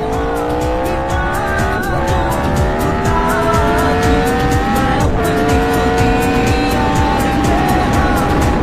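Yamaha R15 V3 motorcycle's single-cylinder engine pulling hard under acceleration, its pitch climbing for about five seconds with a brief break near five seconds, then holding a steady note at cruising speed. A song with a steady beat plays over it.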